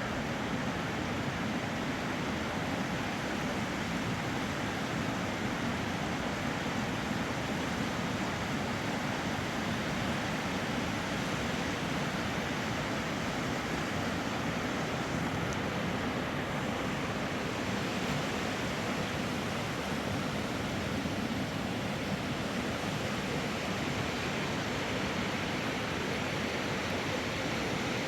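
Steady rushing of a fast-flowing, flooded river, an unbroken wash of water noise.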